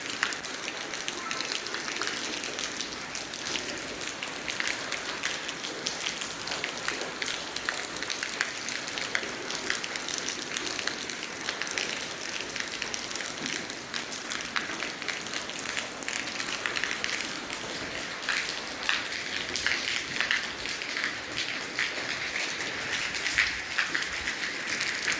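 Steady heavy rain falling and pattering on surfaces, a dense patter of drops.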